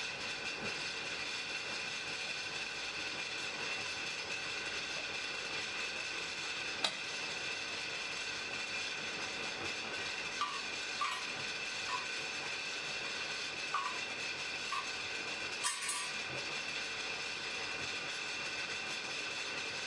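Blacksmith's forge fire burning with a steady rushing hiss carrying a few held tones, with a handful of small crackles and pops: one about seven seconds in and several between about ten and sixteen seconds.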